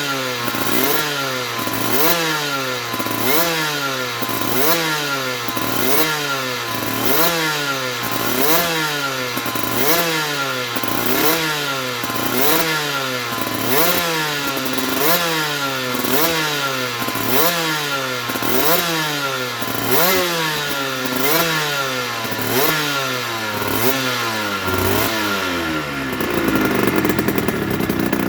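Aprilia RS125's single-cylinder two-stroke engine being blipped over and over, the revs rising and falling back about once a second. Near the end it settles into a steadier, lower running.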